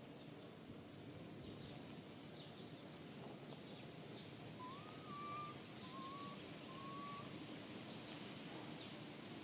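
Faint outdoor ambience: a steady low hiss with scattered short, high chirps, and three short whistled calls in a row about halfway through.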